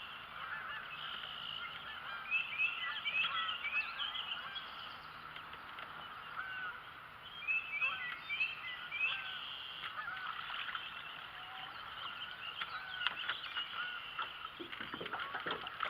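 Many birds calling at once: a busy chorus of short, overlapping calls that keeps up throughout.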